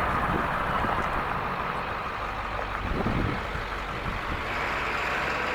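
International T444E V8 turbo-diesel engine of a 1995 Wayne Lifeguard bus running steadily.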